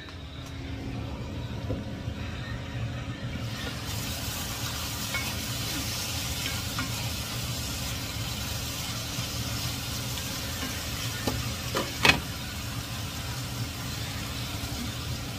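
Food sizzling as it fries in a pan on the stove, the sizzle getting louder and brighter about three and a half seconds in, over a steady low hum. A sharp clack of a utensil or lid on the pan stands out about twelve seconds in, after a few small ticks.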